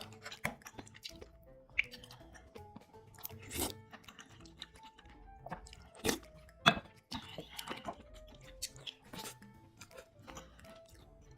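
Close-miked chewing and crunching of food, with several sharp crunchy bites, the loudest about six to seven seconds in, over soft background music.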